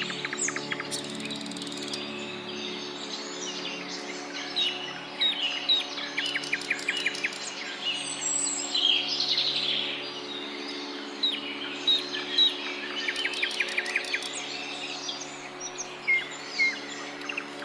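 Several birds chirping and calling together: short whistled notes, quick chirps and rapid trills, coming thick and fast, over a steady low hum.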